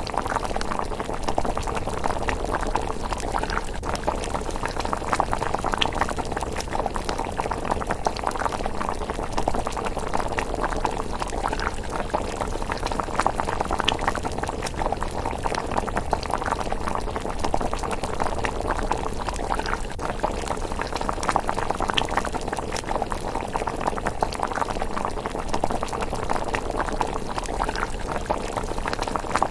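Pot of thick miso rice porridge bubbling steadily at a simmer, a dense, even stream of small bubbling pops, with a few faint sharp crackles from the campfire under it.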